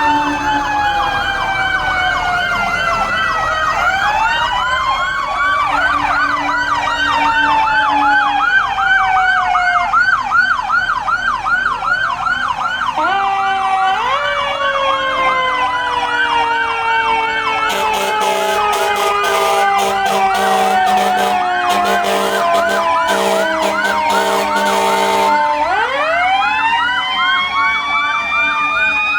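Several fire truck sirens sounding at once: a fast warbling yelp under wailing sirens that rise sharply, then fall slowly, several times. From about eighteen to twenty-five seconds in, a run of rapid horn blasts joins them.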